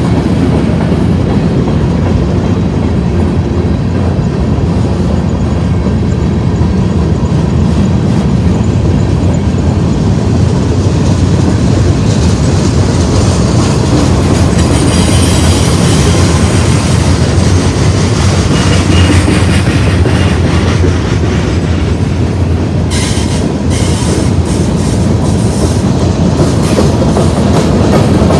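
Union Pacific manifest freight train rolling past: a steady loud rumble of its wheels on the rails, with quick clicks over rail joints that grow sharper in the last few seconds.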